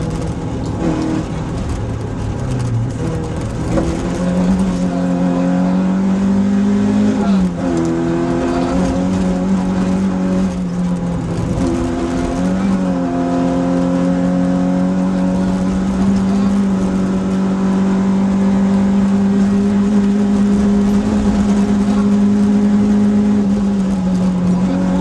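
Rally car engine heard from inside the cockpit, running hard at steady high revs; its note dips briefly and climbs back twice, about a third of the way and halfway through, then holds steady.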